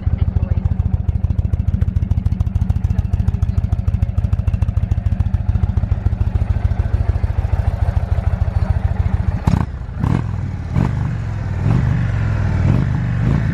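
Indian Roadmaster motorcycle's V-twin engine idling with a steady, rapid low pulse. About nine and a half seconds in there are a few sharp clicks, then the engine revs up and down several times.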